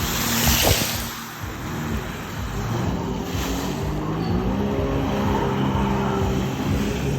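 BMW 320i's engine accelerating, its note climbing in pitch in steps from about two seconds in, after a brief rushing noise at the start.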